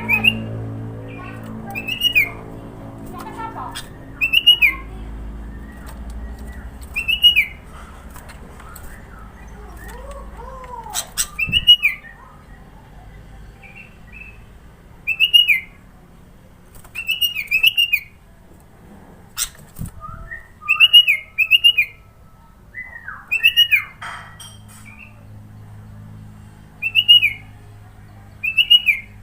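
Sooty-headed bulbul (kutilang) repeating a short, loud, arched whistled note about every two seconds, now and then running several notes into a longer phrase. A couple of sharp clicks come in between.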